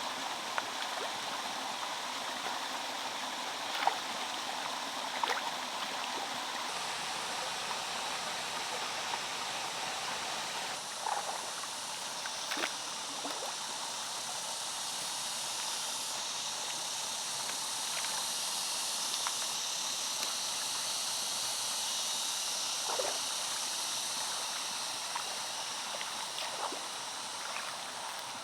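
Water flowing steadily, a stream-like rush, with a few light knocks and clicks scattered through it.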